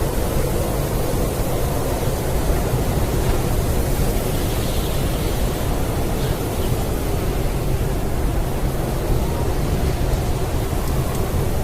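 Blizzard wind, a steady dense rush of noise heaviest in the low end, with no gusts or breaks.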